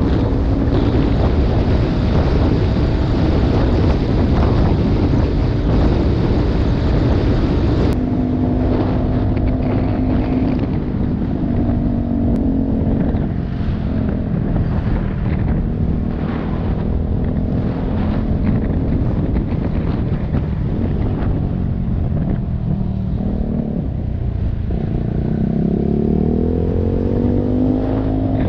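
Motorcycle engine running while riding, with wind buffeting the microphone; the engine revs climb near the end as it accelerates.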